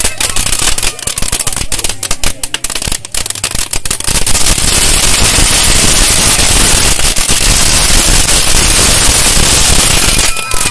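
Firecrackers going off: scattered sharp bangs at first, then about four seconds in a dense, continuous run of rapid pops that lasts some six seconds and stops shortly before the end.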